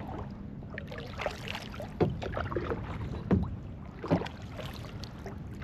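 Kayak on calm water: paddle splashes and dripping water, with three sharp knocks about two, three and four seconds in.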